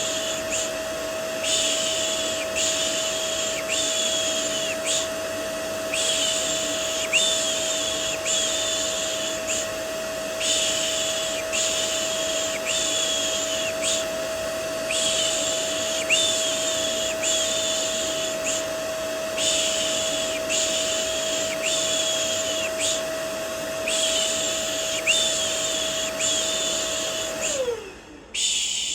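Vacuum cleaner running with a steady humming whine, layered with a rhythmic 'shh' shushing that repeats about every second and a half, used as white noise to soothe a baby to sleep. Near the end the vacuum winds down, its hum dropping in pitch, and the shushing stops.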